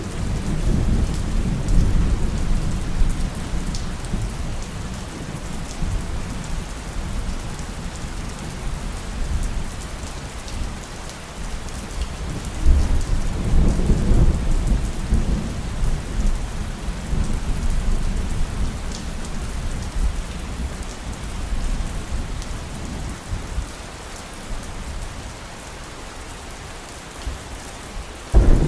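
Steady heavy rain with rolling thunder. Low rumbles swell near the start and again about halfway through, ease off for a while, then a loud clap of thunder breaks in suddenly at the very end.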